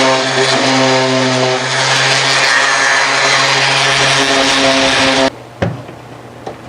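Electric power saw running steadily while cutting plywood, with a steady motor hum under the cutting noise; it stops abruptly about five seconds in, and a couple of light knocks follow.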